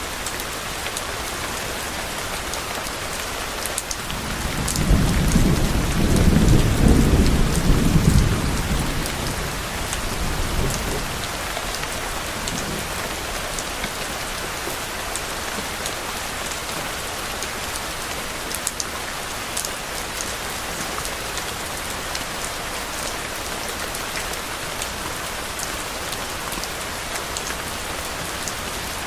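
Steady rain falling, with scattered drips. About four seconds in, a low roll of thunder swells, peaks for a few seconds and fades away by about eleven seconds, leaving the rain alone.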